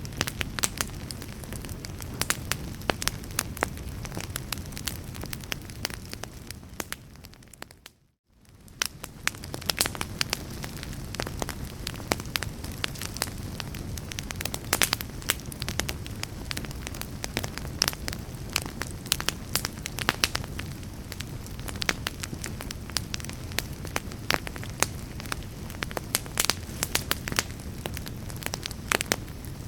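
Wood fire crackling in a fireplace: frequent sharp pops and snaps over a steady low rumble. About seven seconds in the whole sound fades out to silence for a moment, then fades back in.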